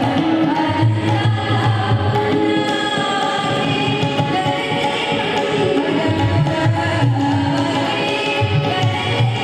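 Music: a woman singing a song with percussion and instrumental accompaniment.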